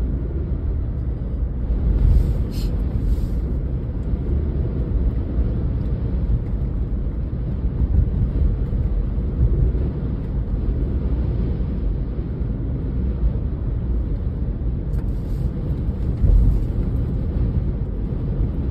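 Steady low rumble of road and engine noise inside a moving car's cabin, with two brief, faint higher hisses.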